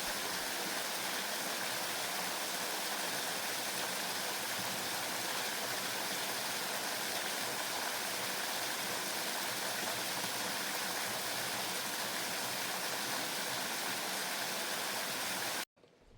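Steady rushing of a waterfall, which cuts off abruptly near the end.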